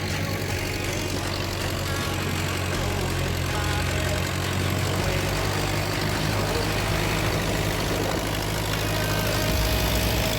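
Fiat 415 tractor engine idling steadily.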